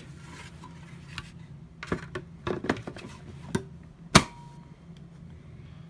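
Light plastic clicks and knocks from handling the upright vacuum's housing, with one sharp snap about four seconds in; the vacuum is not running.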